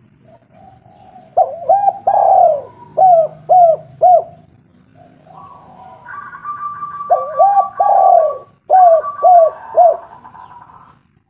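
Spotted dove cooing: two calls about five seconds apart. Each is a run of low, bending coos that ends in three short notes, with a fainter steady higher tone behind.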